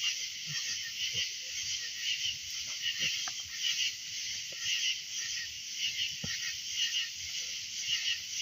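A nighttime chorus of calling frogs, a dense high trilling that swells and fades in a steady pulse about one and a half times a second, with a few faint pops from the campfire.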